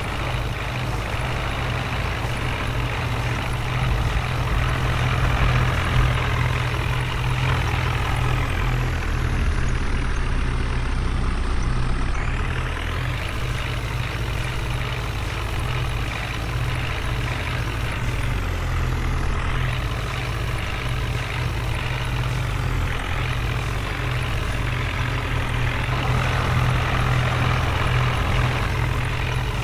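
Heavy diesel engine of a tractor or backhoe loader running continuously at a steady low note.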